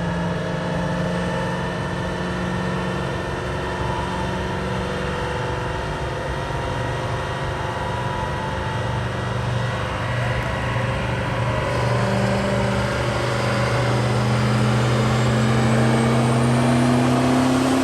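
Single-turbo Duramax diesel truck running on a chassis dyno. Its engine note holds steady at first, then climbs slowly in pitch over the last several seconds as it pulls harder.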